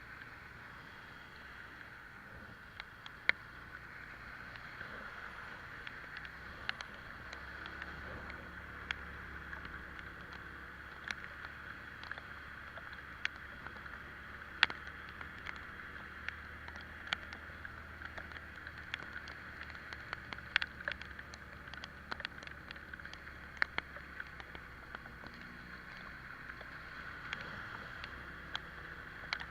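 Italika Vitalia 125 scooter riding in the rain: a low engine hum under a steady hiss of wet road and wind. Irregular sharp ticks of raindrops strike the camera throughout.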